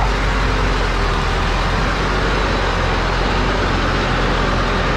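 Heavy dump truck engine running steadily, a dense continuous rumble with no distinct knocks or changes.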